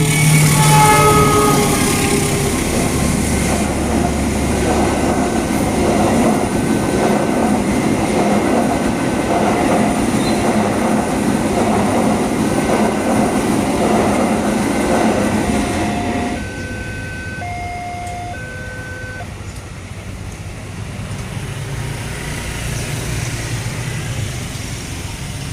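A train passing over a level crossing: a short horn blast at the start, then loud rumbling wheel noise that drops away suddenly about sixteen seconds in. Throughout, the crossing's electronic warning bell beeps about once a second, then stops a few seconds after the train has gone.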